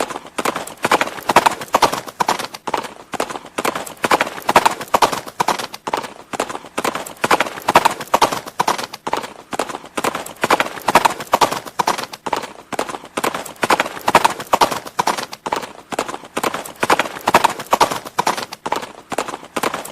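Horse hooves clip-clopping in a steady, unbroken rhythm of quick strikes.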